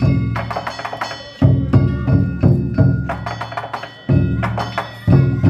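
Danjiri festival hayashi: a large taiko drum struck heavily and ringing, with a quick run of strokes in the middle, over rapid clanging of small metal gongs.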